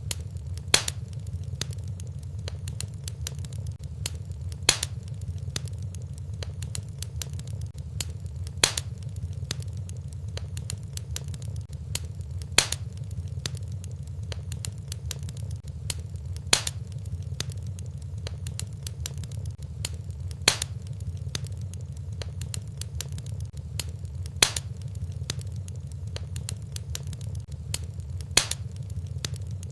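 Fireplace fire crackling over a steady low rumble, with many faint crackles and a sharper, louder pop about every four seconds, evenly spaced like a looped recording.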